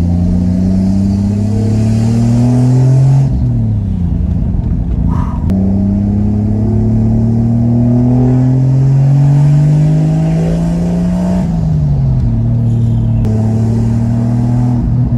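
Turbocharged Mercedes M104 3.2-litre inline-six, with a GT3582 turbo and a 76 mm straight-pipe exhaust, pulling hard on a test drive. The revs climb for about three seconds, fall away as at a gear change, climb again for about six seconds, then settle steady. A brief whistle sounds about five seconds in.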